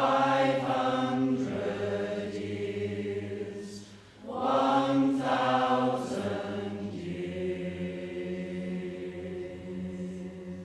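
A choir singing long held, chant-like notes in harmony. Loud phrases enter at the start and again about four seconds in, then settle into a softer sustained chord that fades near the end.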